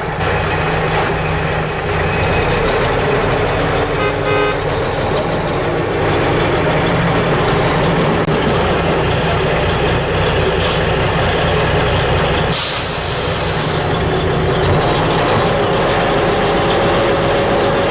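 Dump truck engine running steadily, with a short run of quick pulsing beeps about four seconds in and a brief hiss of air about twelve and a half seconds in.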